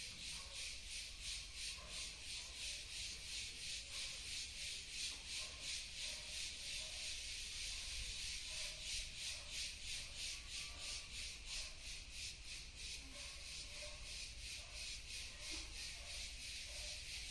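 Cicada singing: a steady, high buzzing trill that pulses evenly about three times a second.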